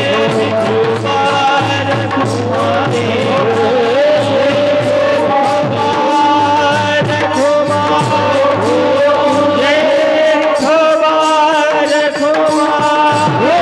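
Devotional Marathi bhajan from a Varkari kirtan: long, ornamented sung notes over a steady beat of percussion.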